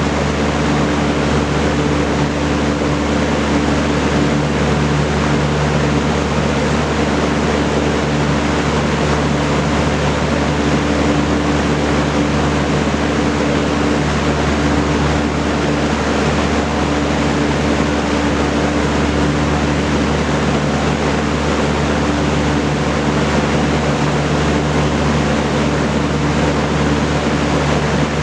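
Vintage Kenmore Roll-A-Matic 20-inch box fan running steadily: the loud rush of air from its four-blade propeller over a steady electric motor hum.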